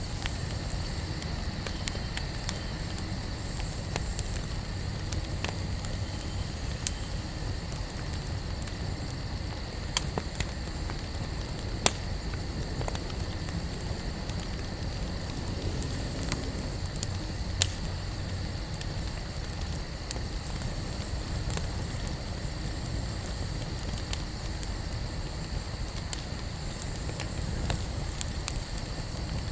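Wood fire burning with a steady low rustle of flame and a constant light crackle, broken a few times by louder sharp pops of the burning wood.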